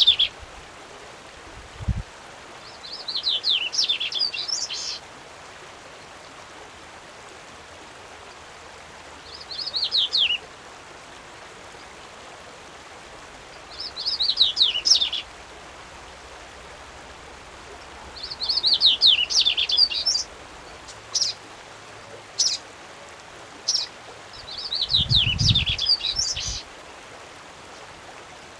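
A Brazilian songbird singing short phrases of rapid, falling high notes, repeated every four to five seconds, with a few single sharp notes in between, over a steady faint background hiss.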